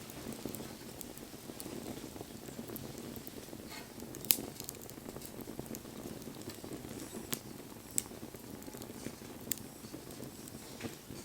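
Wood campfire burning: a steady low rush of flames with scattered sharp pops and crackles from the burning wood, the loudest pop about four seconds in and a few more after the middle.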